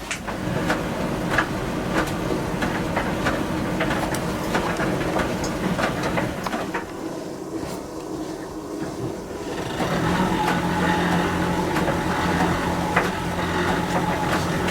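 Miele T1 heat-pump tumble dryer starting a cottons cycle: the drum turns with clothes tumbling inside, giving a run of light knocks and clicks. About ten seconds in, a louder steady machine hum joins as the dryer runs up.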